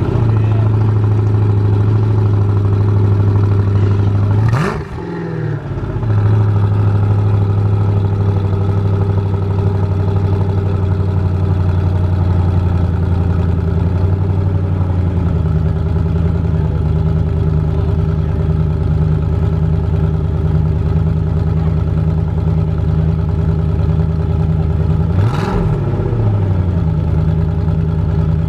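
Bugatti EB110 SS's quad-turbo V12 idling steadily, with two short throttle blips that rise and fall in pitch, about five seconds in and again near the end. The idle note shifts about halfway through.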